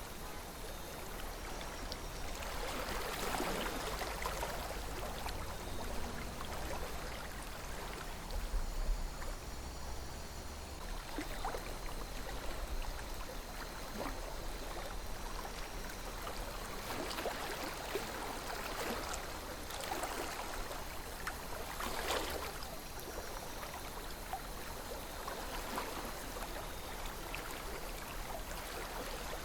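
River water flowing steadily, with occasional brief gurgles and splashes over the constant rush.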